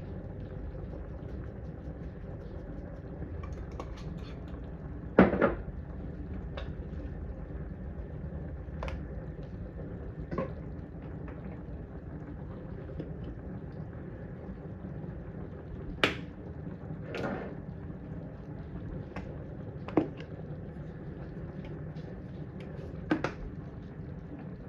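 Kitchen cooking noises: a steady low background hum, broken every few seconds by sharp knocks and clinks of cookware and utensils, about six in all. The loudest comes about five seconds in.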